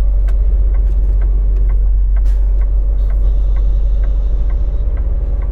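Semi-truck running, heard from the cab: a steady low engine and road rumble with light, regular ticks about three times a second.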